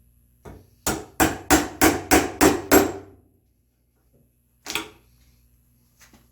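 Mallet striking a chisel to chop out a mortise in red oak: a light tap, then a rapid run of seven sharp blows about three a second, and one more blow a couple of seconds later.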